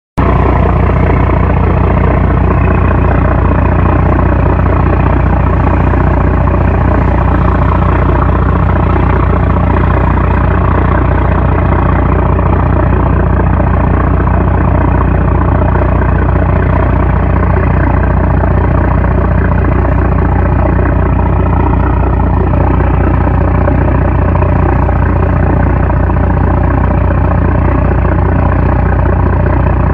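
A 750-horsepower trawler's diesel engine running steadily and loud: a constant low drone with several steady higher tones above it.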